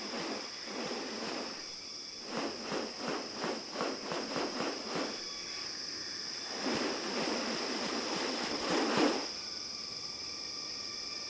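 Forest ambience with a steady high insect drone. Over it come a run of quick harsh rasping pulses, about three a second, from around two to five seconds in. Then a longer rasping burst grows louder and stops abruptly about nine seconds in.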